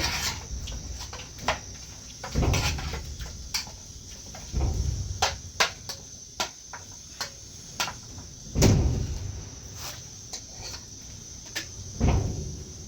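Clatter of pots and utensils being handled: scattered clicks and knocks with four dull thumps spread through, over a steady faint high-pitched hiss.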